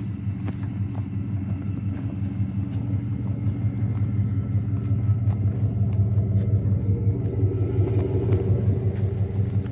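Pickup truck engine running steadily as it drives slowly, getting a little louder through the second half.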